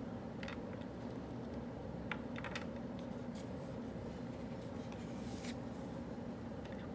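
Pen scratching on paper in short, irregular strokes over a steady low room hum.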